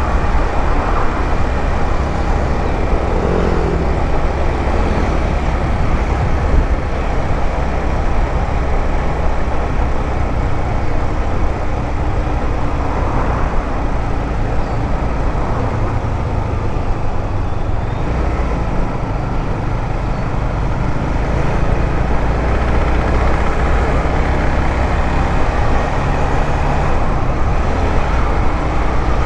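A 150cc motorcycle's engine running steadily while riding, with heavy wind rush on the microphone.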